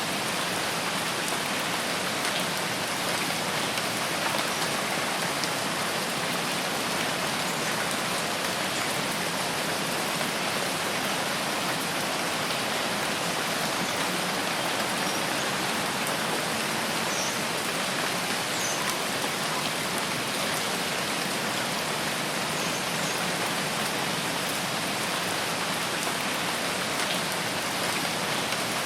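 Steady rainfall, an even hiss of rain hitting leaves and the ground.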